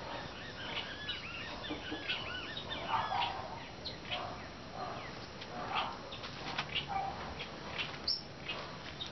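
Small birds chirping and twittering: a quick run of many short, arched notes in the first few seconds, then scattered single chirps.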